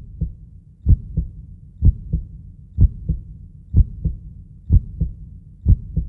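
Heartbeat sound effect: a slow, steady lub-dub, about one double thump a second, over a low hum.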